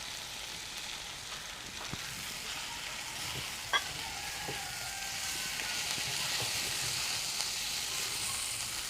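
Fried chicken pieces and cashew nuts sizzling in oil with onion and capsicum as they are stir-fried in a pan, a steady hiss that grows slightly louder about halfway through. A single sharp metallic clink, like a spatula against the pan, about four seconds in.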